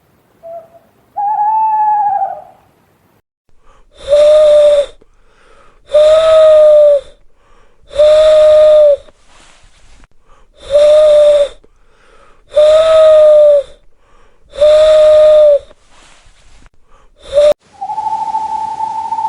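Owl calls: a single hoot with a falling end about a second in. Then six evenly spaced hoots, each about a second long and two seconds apart, and a brief seventh cut short. A long steady hooting note of another owl begins near the end.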